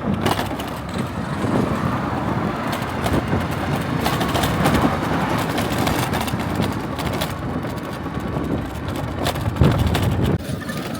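A road vehicle on the move, with steady engine and road noise and wind buffeting the microphone.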